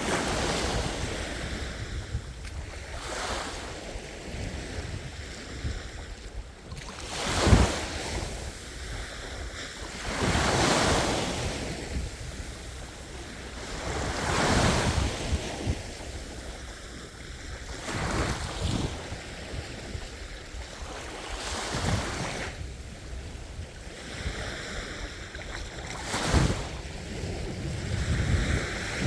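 Sea waves breaking and washing on a shore, a surge swelling and fading every three to four seconds, the sharpest break about seven seconds in. Wind rumbles steadily on the microphone underneath.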